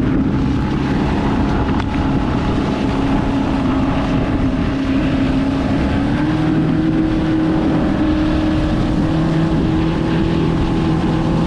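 Boat's outboard motor running steadily under way, with a rush of wind and water; the engine note rises a little about halfway through.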